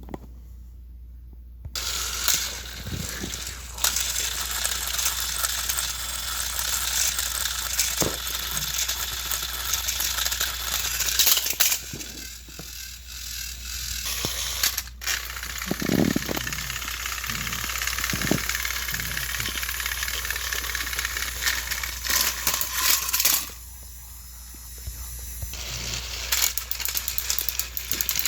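Battery-powered toy train engines running on plastic track: a high motor whir with a clicking rattle. It starts about two seconds in, drops out briefly around the middle, stops a few seconds before the end and starts again near the end.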